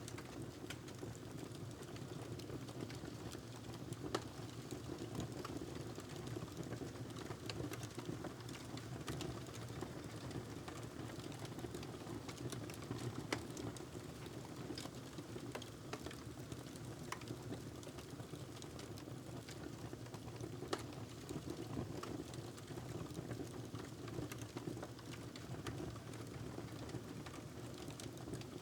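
Wood fire crackling in a fireplace: a steady low rush of flames with scattered small snaps and pops, a few louder ones about 4, 13 and 21 seconds in.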